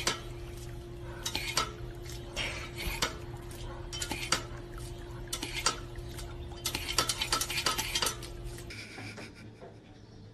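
Repeated irregular clacks and clicks from a dog working a step-on, hose-fed pet water fountain, with water spattering and a steady low hum underneath. The clatter cuts off suddenly near the end.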